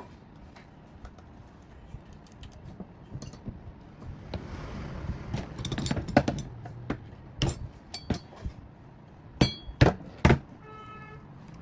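Metal parts and tools clinking and knocking, a series of separate sharp taps, the loudest near the end, followed by a short steady pitched tone.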